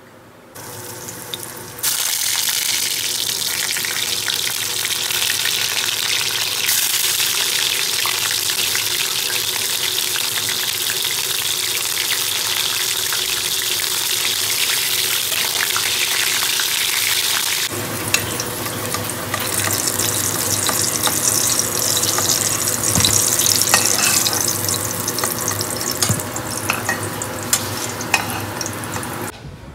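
Hot oil sizzling as stuffed bitter gourds shallow-fry in a pan. The sizzle starts about two seconds in, and occasional sharp clicks come through it in the second half.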